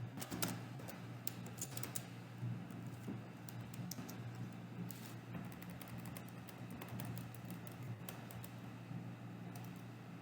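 Typing on a computer keyboard: irregular bursts of keystrokes over a steady low hum.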